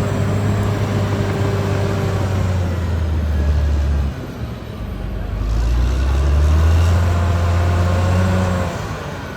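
Caterpillar D6R XL bulldozer's diesel engine running under load. It drops off about four seconds in, pulls up again a second or so later, and eases off near the end.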